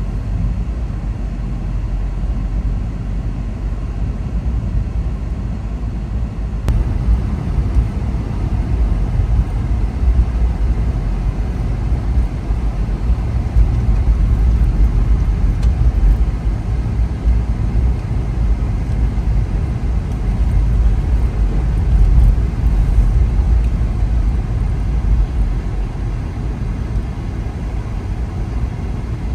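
Car driving: a steady low rumble of engine and road noise with no let-up.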